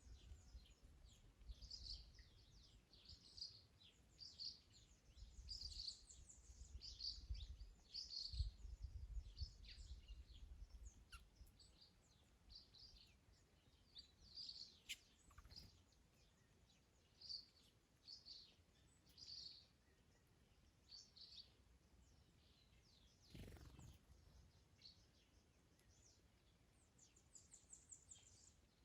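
Garden birds chirping and calling faintly, short high notes repeated every second or so, over a low rumble of wind in the first third. A brief whoosh comes about two-thirds of the way through.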